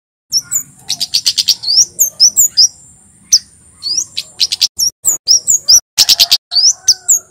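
Male kemade jawa (flowerpecker) singing: a fast, loud string of sharp high chips and short rising 'tsit' notes in quick bursts, starting a moment in, over a thin steady high whine.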